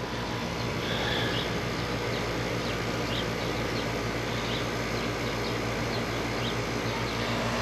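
Air-conditioning condensing unit running steadily: the compressor's low hum with the condenser fan's even rush, while the undercharged system takes on refrigerant. A few faint high chirps sound over it.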